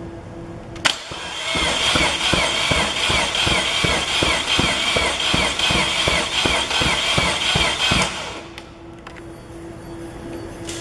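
Mazda 13B twin-rotor rotary engine cranked over by its starter motor: a click, then a steady whine with an even pulsing beat for about six seconds, stopping without the engine catching.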